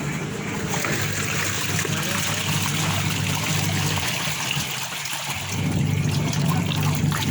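Used LG washing machine running a wash: steady motor hum with water swishing in the tub. The motor stops briefly about five seconds in, then starts again.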